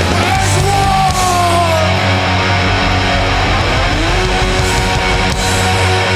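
Hardcore punk band playing live, loud, with distorted electric guitars. A note slides down about a second in, and another slides up around four seconds in.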